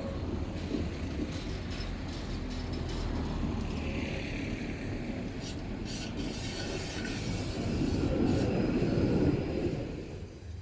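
A tram running on its rails, with the rumble of the wheels on the track and a high wheel squeal around the middle. The rumble is loudest shortly before the end, then falls away as the tram moves off.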